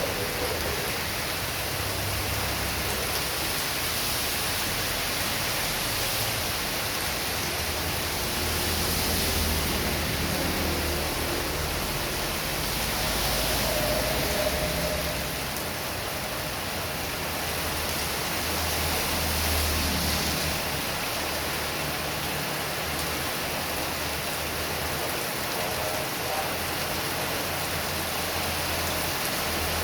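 Heavy rain falling in strong wind: a dense, steady hiss that swells and eases every few seconds, with a low rumble underneath.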